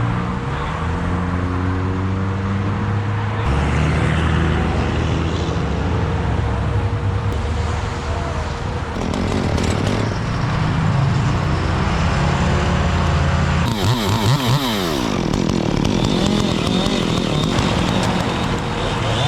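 Chainsaw engine running continuously, with its pitch shifting several times and revving up and down about two-thirds of the way through, as when cutting wood.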